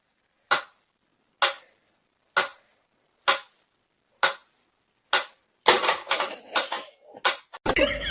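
A series of sharp single taps or knocks, evenly spaced about once a second, followed a little past halfway by a louder, busier clatter of several knocks.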